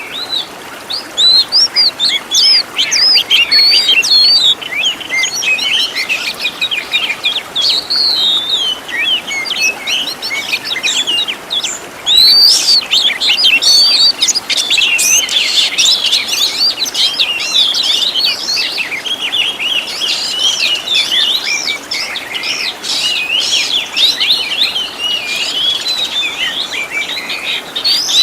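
Oriental magpie-robin (kacer) song: an unbroken, fast-changing string of sharp chirps, whistles and trills, growing denser and louder about twelve seconds in. It is a 'full isian' masteran, the magpie-robin's song packed with fill-in phrases, made for training caged birds.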